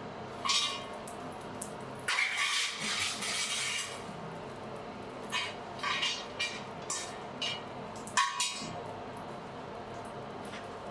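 Blacksmith's forge fire running with a steady low rushing, broken by short metallic clinks and a scrape of about two seconds, as of tools or metal being moved in the forge.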